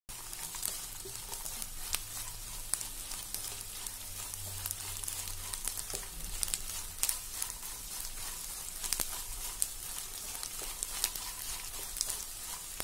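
Edible gum (gond) frying in hot ghee in a pan: a steady sizzle with many small sharp crackles as the gum pieces puff up, stirred with a silicone spatula.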